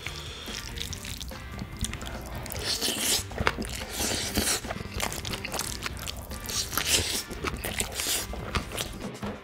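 Close-miked eating: a spoon scraping a ceramic bowl, then wet chewing of mouthfuls of Spam-mayo rice, coming in bunches of short smacking sounds. Soft background music runs underneath.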